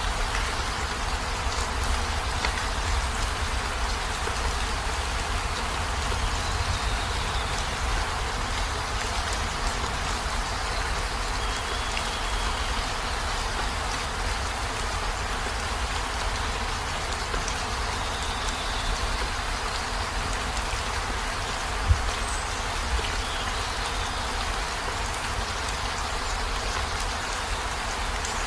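Heavy rain falling steadily on a minivan's roof and windows, an even patter with a low rumble underneath. One sharper knock stands out about three-quarters of the way through.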